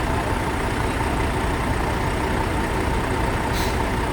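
Heavy vehicle engines, tractors or lorries, running steadily at low revs, with a brief high tick near the end.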